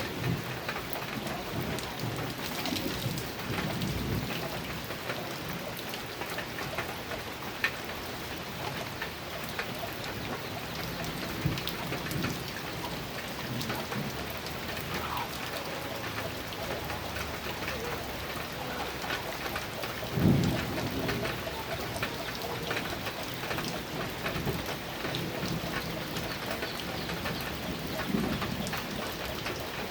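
Heavy rain falling on a metal roof in sharp ticks and patter, with low rolls of thunder; the strongest roll comes about twenty seconds in.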